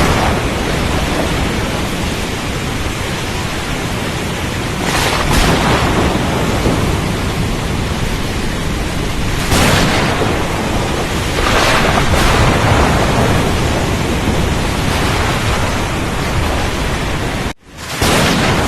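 Storm at sea: a continuous loud rush of wind, rain and surf, swelling in several heavier surges like breaking waves or rolling thunder. The sound cuts out for an instant near the end and comes straight back.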